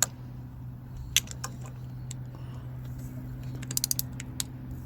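Crankshaft of a used Fiat 1.4 T-Jet turbo engine being turned over by hand at the crank pulley, turning freely: scattered light mechanical clicks, with a quick run of four or five ticks about four seconds in, over a steady low hum.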